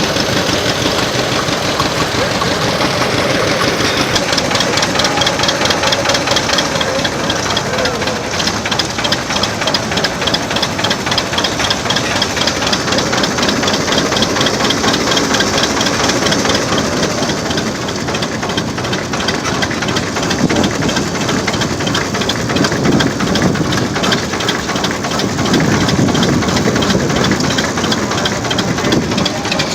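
Old engine running steadily with a fast, even chugging beat.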